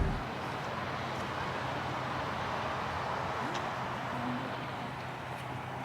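Steady outdoor background noise: an even hiss over a low steady hum, with a few faint clicks.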